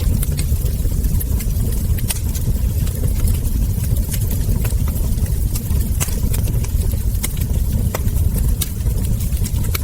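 Wood fire crackling: irregular sharp pops and snaps from burning logs and embers over a steady low rumble of the flames.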